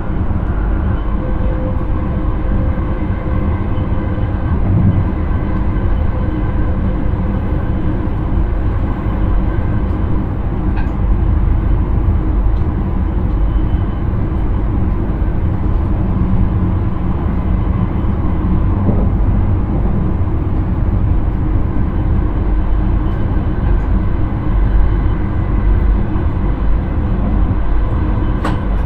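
Intercity train running along the track, heard from inside the driver's cab: a steady low rumble of wheels and running gear, with a single sharp click near the end.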